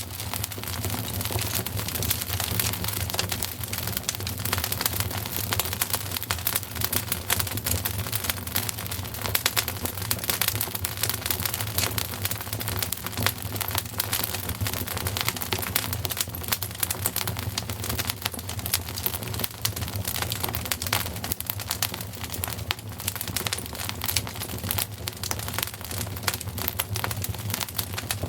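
Wood fire crackling in a fireplace: a dense, continuous run of small pops and snaps over a steady low rumble.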